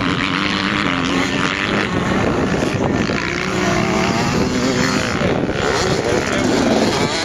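Motocross dirt bike engines revving on the track, overlapping engine notes rising and falling as riders open and close the throttle.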